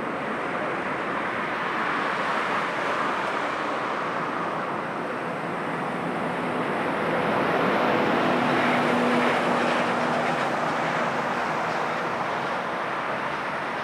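Jet airliner engines running with a steady roar that swells a little in the middle and then eases, with a faint steady hum under it.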